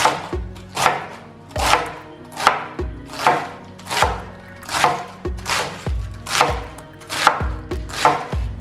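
Bread dough being kneaded by hand on a work surface: a steady rhythm of pushes and thuds, a little more than one a second.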